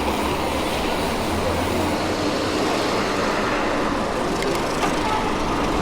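Mountain bike rolling along a dirt road: a steady rush of tyre and wind noise with a few sharp clicks of rattle about four and a half seconds in.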